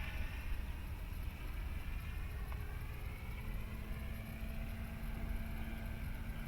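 Electric motor and propeller of a Dynam Super Cub RC plane droning faintly while it flies at a distance, with wind rumble on the microphone.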